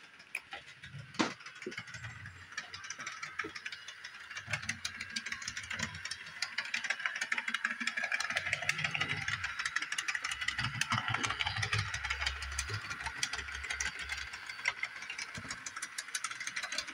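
Bachmann Doodlebug model railcar running on the track, its motor and gears whirring with rapid clicking and clunking; the sound grows louder about six seconds in and stays up. The owner suspects the tight 18-inch-radius curve is behind the clicking.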